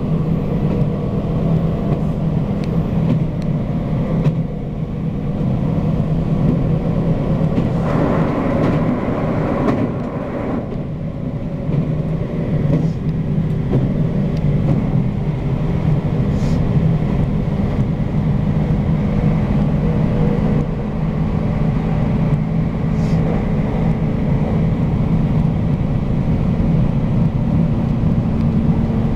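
A JR Hokkaido local train running at speed, heard from inside the passenger car: a steady rumble of wheels on rail under a constant motor hum, with a few brief clicks.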